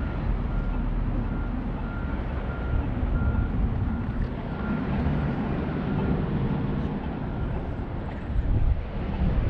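A heavy vehicle's engine running, with a reversing alarm beeping about twice a second that stops about halfway through.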